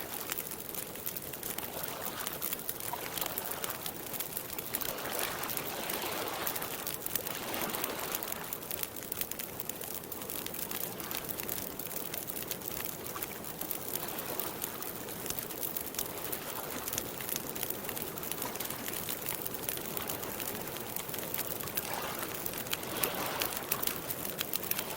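Campfire crackling with a constant stream of small pops, over soft washing of water that swells every few seconds.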